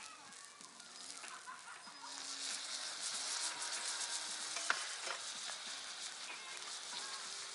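Wood campfire crackling and hissing, growing louder about two seconds in, with one sharp pop a little after the middle.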